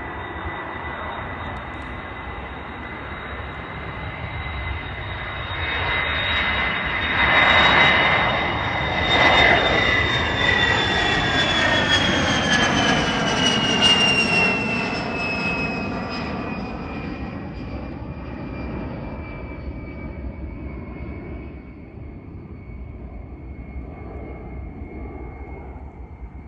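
Fixed-wing aircraft taking off and passing by: a steady high engine whine swells to its loudest about eight to fourteen seconds in, then falls in pitch and fades as the aircraft moves away.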